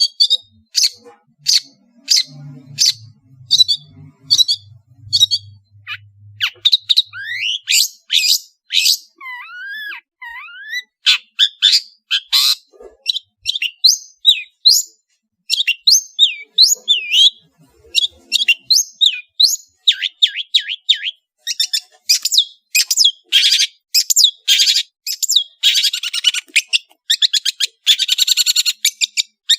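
Long-tailed shrike (cendet) singing a varied song: sharp, high, spaced notes at first, then curving whistled glides, then quicker strings of notes that run into a fast rattling series near the end.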